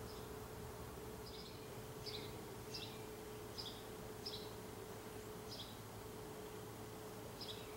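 A bird chirping in a series of about seven short high notes, each one a quick double note, repeated roughly every two-thirds of a second with a longer gap near the end, over a faint steady hum.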